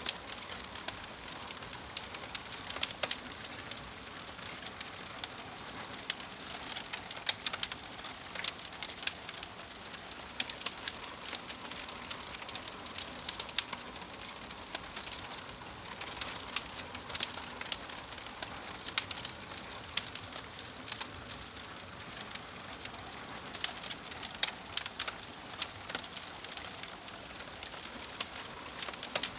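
Wood fire crackling: a steady low hiss with frequent irregular sharp pops and snaps.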